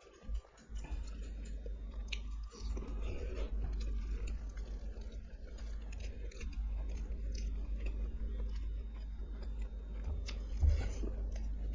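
Close-miked chewing and biting of spicy curry, chicken lollipop and fried rice for ASMR: continuous wet mouth sounds with many small clicks and light crunches. One louder low thump comes about ten seconds in.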